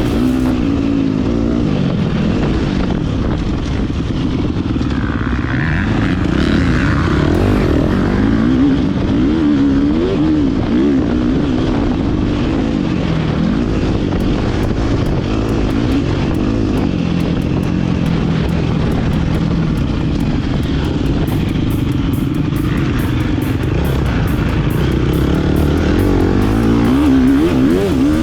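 Motocross bike engine revving up and down repeatedly as the rider works the throttle and gears around the track, with wind rush on the microphone.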